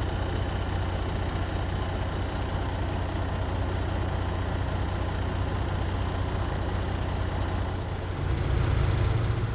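Kenworth W900 semi truck's diesel engine idling, a steady low hum; about eight seconds in it gets louder and a little higher in pitch.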